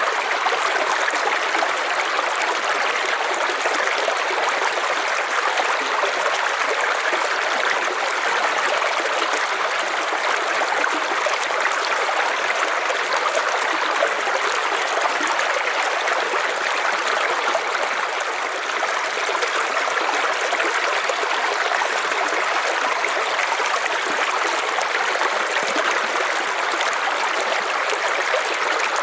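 A river flowing over stones: a steady, even rush of water with a fine trickling texture.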